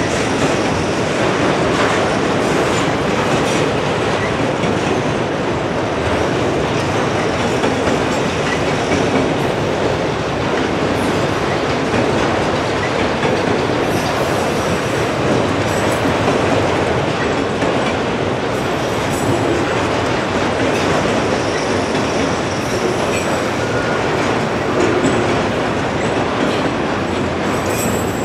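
Freight train of enclosed autorack cars rolling past at steady speed: the continuous noise of steel wheels on the rails, with a few clicks as the wheels cross rail joints.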